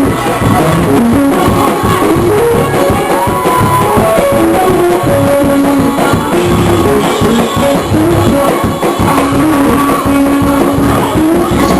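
Loud live praise-break music: a church band playing a fast, driving groove with organ or keyboard lines over bass and drums, with some singing and congregation noise mixed in.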